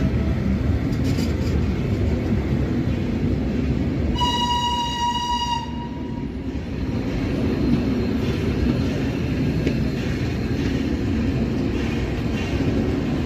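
Steam-hauled train running with a steady low rumble, and one whistle blast about four seconds in, a single steady note lasting about a second and a half.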